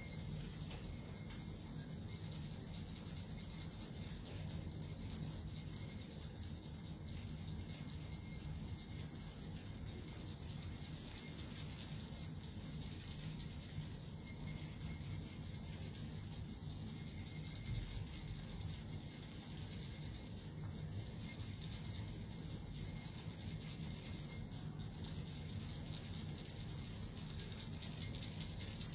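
Suzu bells and a metal rattle shaken continuously in a dense, high-pitched jingling shimmer, easing off briefly twice.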